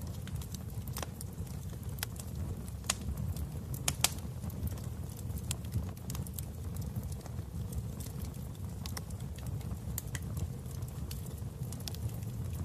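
Wood fire burning in a fireplace: a steady low rumble with irregular crackles and pops, a few sharper snaps around two to four seconds in.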